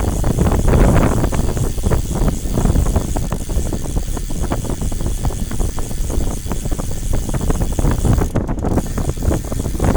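Wind buffeting the microphone over a steady low rumble from a moving vehicle, with many small knocks and rattles from a rough ride.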